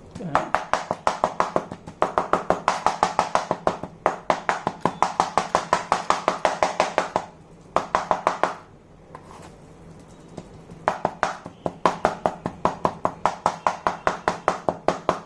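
A knife chopping boneless chicken meat on a cutting board, in fast, even strokes at about five a second. The strokes come in runs of several seconds with short breaks, and there is a longer break about two-thirds of the way through.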